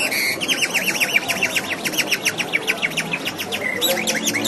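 A birdsong imitation, whistled: a rapid trill of sharp falling chirps, about eight a second, giving way near the end to a few slower rising-and-falling chirps.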